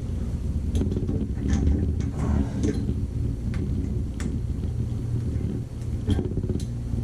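A steady low hum with scattered light clicks and knocks, about six of them, from parts and tools being handled while a Moen tub and shower valve cartridge is fitted back in.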